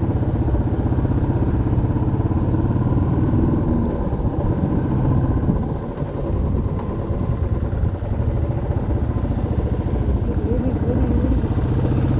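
Motorcycle engine running steadily while riding, with a brief drop in loudness about six seconds in.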